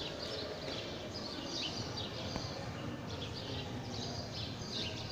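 Many small birds chirping in short repeated calls, over a steady background hum.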